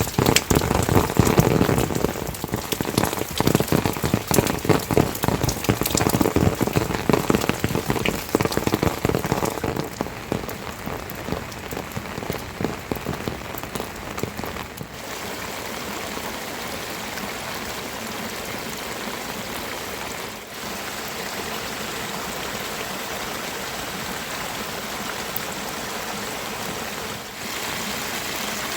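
Heavy rain falling, with dense close drops striking a surface for the first half, then a steadier even rain noise from about halfway on.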